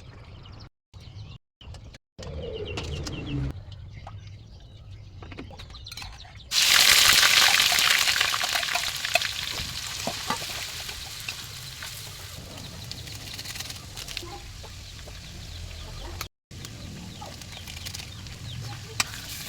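Chickens clucking in short clips. About six seconds in, food drops into a hot pan and sets off a sudden loud sizzle that slowly dies down to a steady frying hiss.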